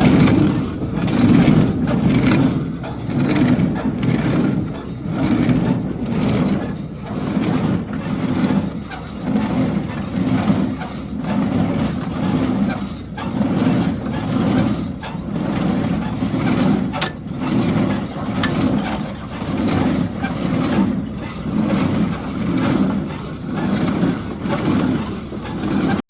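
New Holland Compact Hayliner 65 hay baler running empty, its mechanism pulsing rhythmically a little under once a second. It runs freely, with its seized bearings freshly loosened, greased and oiled.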